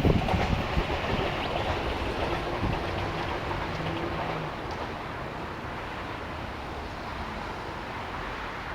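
Rumble of a passing train dying away as it recedes along the track, fading slowly into steady background noise.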